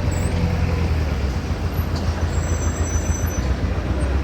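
Street traffic: a steady low engine rumble of heavy vehicles, with a faint high squeal partway through.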